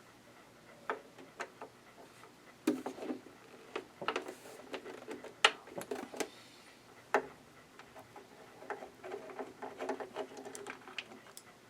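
Irregular clicks, taps and knocks of a screwdriver and small screws being worked out of the underside of a Janome ME4014 sewing machine and set down, the loudest knocks about five and a half and seven seconds in.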